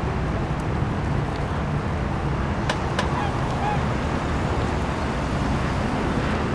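Waterfowl at a lake, ducks and geese, calling with scattered short honks and quacks over a steady low rumble, with two light clicks about three seconds in.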